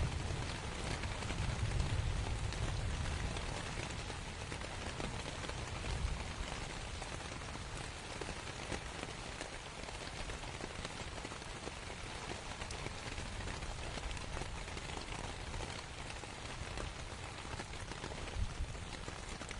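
Steady rain falling on canvas. A low rumble of distant thunder fades away over the first few seconds.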